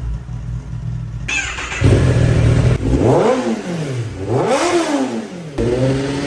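Kawasaki ZX-10R's inline-four engine idling and blipped twice, its pitch sweeping up and straight back down each time, through an aftermarket or open exhaust.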